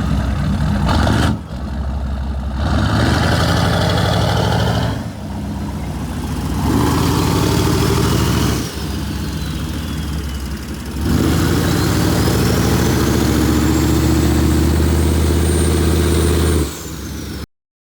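6.5-litre turbo diesel engine revved four times from idle, the last rev held for about five seconds. A high turbo whistle rises and falls with the revs. The sound cuts off abruptly near the end.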